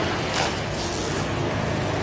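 A motor running steadily with a low hum, and a short sharp sound about half a second in.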